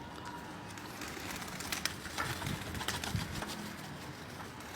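Red domestic pigeons cooing softly, low calls overlapping in a loft, with a few sharp clicks in between.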